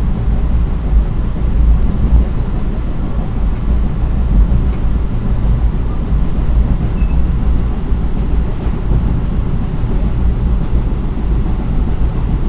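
Steady low rumble of an NJ Transit Atlantic City Line train running along the track, heard from inside a passenger coach.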